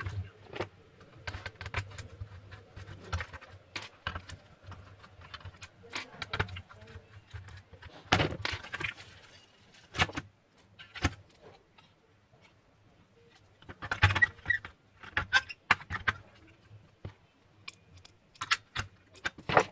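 Scattered clicks, taps and crackles of a microwave's plastic control panel and its membrane keypad being handled, with busier clusters of clicks about eight seconds in, around fourteen seconds, and near the end.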